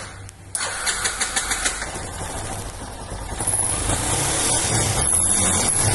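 Yamaha Lander single-cylinder fuel-injected motorcycle engine starting and running with a fuel pressure gauge fitted. It starts with a quick run of pulses about half a second in, then runs steadily, getting louder with a thin high whine from about halfway. The fuel pressure stays low and does not rise, at about 1.5, too low for the injector.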